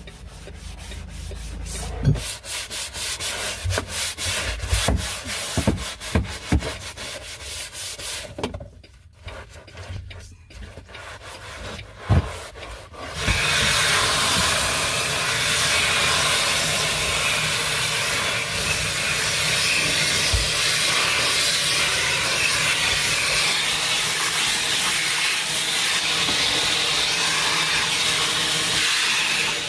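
Brush scrubbing a wet floor in short, uneven strokes, then about halfway through a vacuum cleaner switches on and runs steadily.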